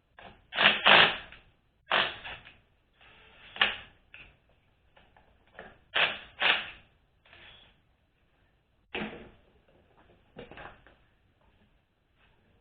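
Irregular knocks and clinks of hand work on a transmission's metal parts and tools, about a dozen short sounds, some in quick pairs.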